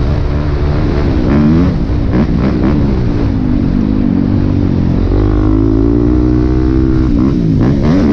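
Yamaha YZ250F four-stroke dirt bike engine revving hard, its pitch climbing and dropping again and again as the rider works the throttle and gears.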